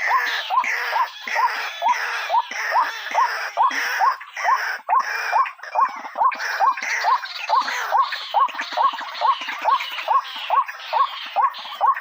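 White-breasted waterhen (ruak-ruak) calling: a fast, steady run of short rising notes, about two and a half a second, over a harsh chattering layer.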